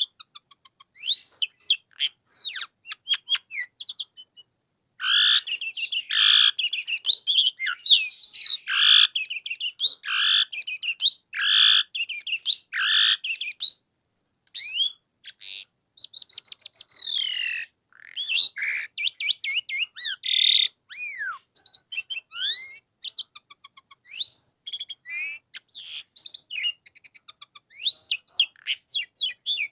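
Asian pied starling (jalak suren) singing continuously: a varied song of whistles, chattering and sliding notes. A loud run of repeated phrases begins about five seconds in and lasts some nine seconds.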